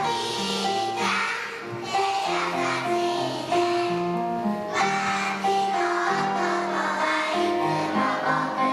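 Young nursery-school children singing a pop song together over recorded backing music.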